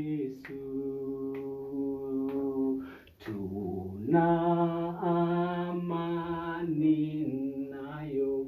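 A voice singing a Swahili hymn unaccompanied, holding long steady notes with short breaks between phrases.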